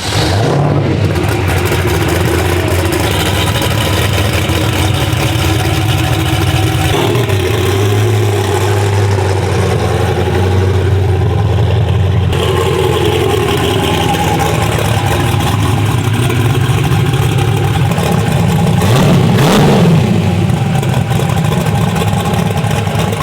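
High-horsepower twin-turbo pickup race truck's engine running up close. Its note shifts about a third of the way in and again near the middle, with a brief swell near the end.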